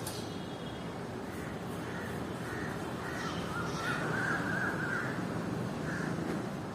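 A bird calling repeatedly in short calls, over steady background noise.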